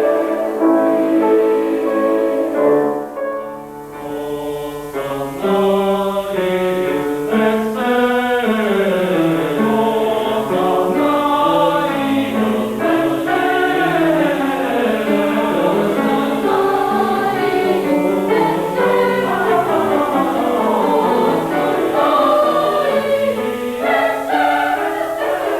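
Boys' and youths' choir singing a song in several parts with moving melodic lines. The sound drops away briefly about three seconds in, then the next phrase begins.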